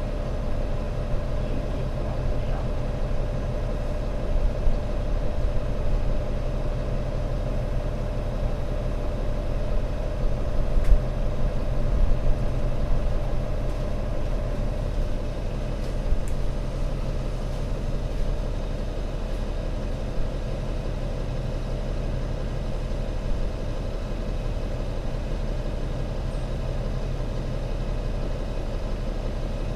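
Diesel engine of an Alexander Dennis Enviro500 MMC Euro 6 double-decker bus running steadily, a low even drone with a few small surges about ten to thirteen seconds in.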